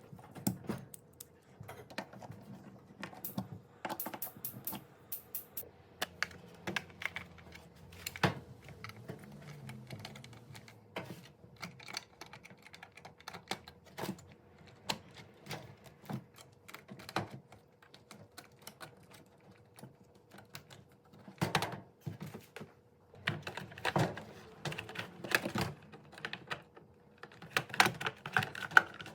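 Irregular small clicks, taps and knocks of hand-tool work on a dishwasher's door latch as its screw is tightened, coming in quick clusters near the end.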